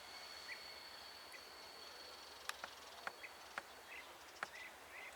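Faint outdoor ambience: a steady high insect drone that fades after about four seconds, short bird chirps, and a few sharp clicks in the second half.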